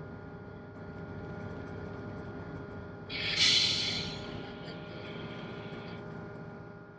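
A tugboat's diesel main engine runs with a steady drone and hum. About three seconds in, a sharp hiss bursts out, loudest at once, then fades away over the next two seconds or so.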